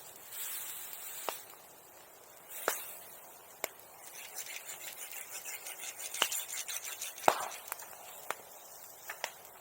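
Bonfire crackling, with sharp pops every second or so over a faint hiss, the loudest about seven seconds in.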